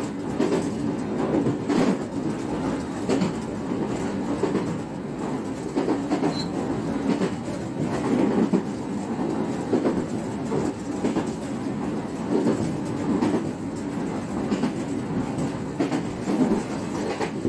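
JR West 125 series electric train running along the line: a steady rumble with repeated wheel clacks over rail joints.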